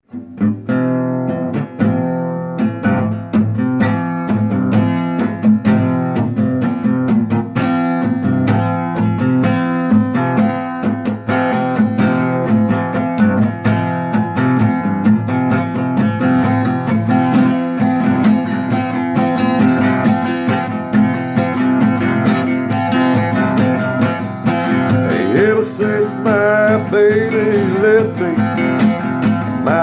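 Acoustic guitar strummed in a steady rhythm, a song's instrumental introduction. Near the end a wavering, sliding melody line joins the strumming.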